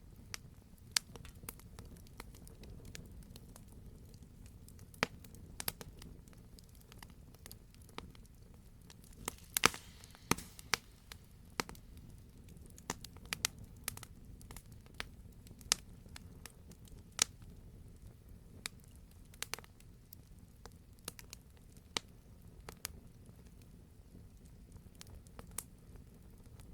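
Wood fire in a fireplace crackling, with a steady low rush of flame under irregular sharp pops and snaps; a quick cluster of louder pops comes about ten seconds in.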